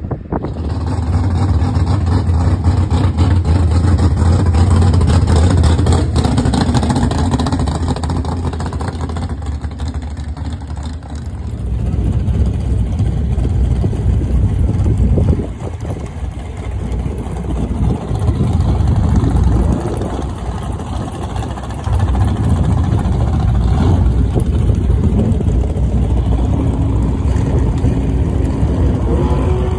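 Drag race car engine running steadily at close range, loud, with a deep low tone and a couple of brief dips in level partway through.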